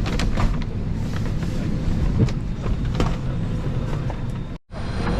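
Airliner cabin ambience inside an Airbus A320: a steady low rumble of air-conditioning and ground noise, with scattered light clicks and knocks. The sound drops out briefly near the end.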